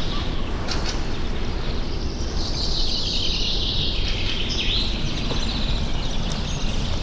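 Songbirds singing, with one long, high, rapid song rising clearly about two and a half seconds in and fading near five seconds, over a steady low rumble of outdoor noise.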